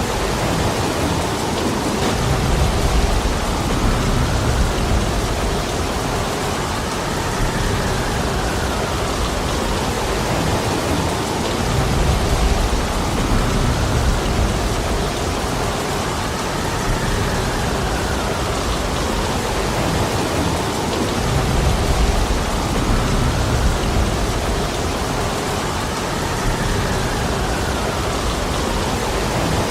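Heavy rain falling steadily. A low rumble swells up and fades three times, about every nine to ten seconds.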